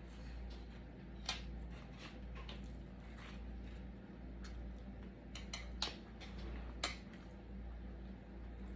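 Eating and food-handling sounds: a few sharp clicks and light clinks, one about a second in and a cluster near the middle, over a steady low hum.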